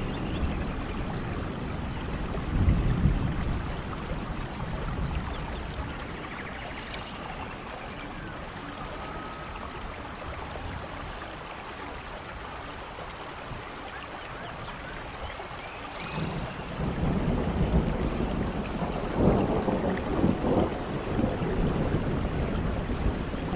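Steady rain with rolling thunder: a short rumble about three seconds in, then a longer, louder rumble from about two-thirds of the way through to the end.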